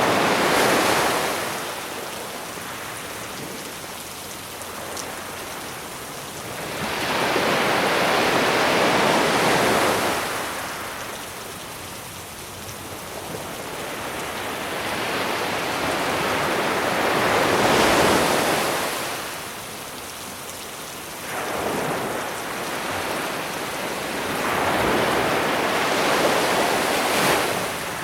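Sea waves breaking and washing up the beach, coming in slow swells of a few seconds each, five in all, over a steady hiss of rain.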